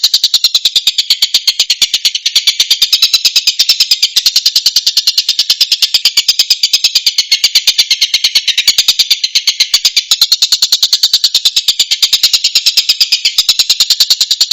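Tengkek buto kingfisher calling: a loud, fast, even rattle of sharp high notes, unbroken throughout.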